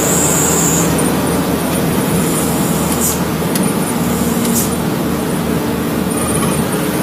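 Truck engine running steadily with road and tyre noise, at a constant pitch with no revving.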